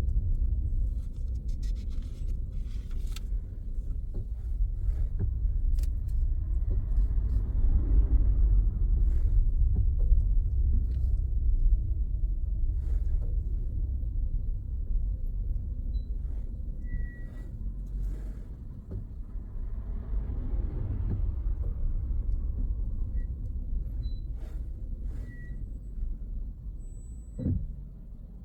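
Car driving on the road: steady low engine and tyre rumble that swells and eases, with a single knock near the end.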